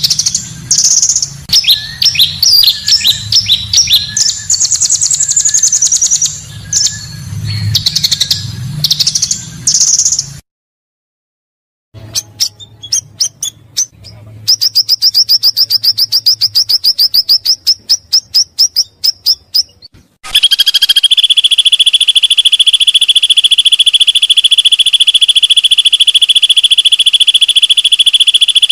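Recorded calls of the pancawarna songbird. First comes a run of sharp, varied chirps and whistles. After a brief silent cut about ten seconds in, there are rapid clicks and a fast high trill. From about twenty seconds a steady, high buzzing trill holds unbroken to the end.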